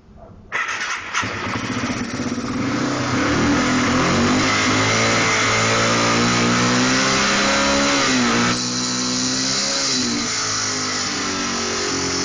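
2002 Yamaha TT-R225 dirt bike's air-cooled single-cylinder four-stroke engine starts up about half a second in and is revved: the pitch rises, holds, drops about eight seconds in, then blips up again. The owner takes a light clicking from this engine for a timing chain that has jumped out of time.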